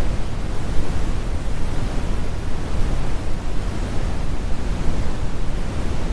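Steady, deep brown noise: an even rumbling hiss, heaviest in the low end with the high frequencies rolled off.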